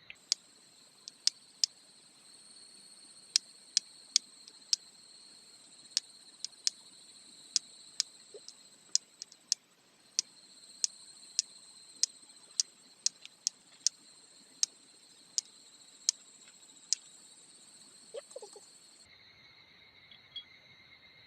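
Flint struck repeatedly against a fire steel to throw sparks: sharp metallic clicks at an irregular pace of about two a second, stopping a couple of seconds before the end, over a steady high trill of insects.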